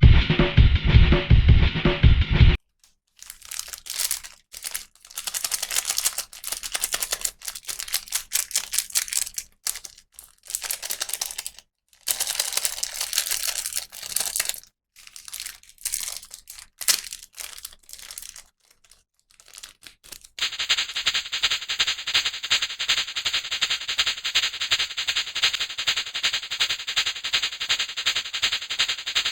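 Drum-beat music that cuts off after a couple of seconds. Then come irregular bursts of crinkly rustling, like plastic packaging being handled. From about twenty seconds in there is a steady, rapid crackling.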